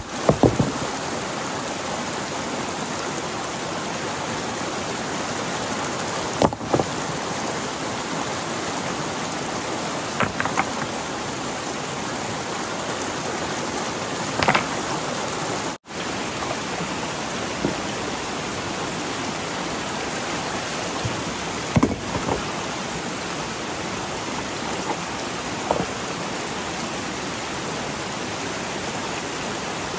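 Steady rush of flowing water, with scattered short sharp knocks and clicks over it, about half a dozen in all.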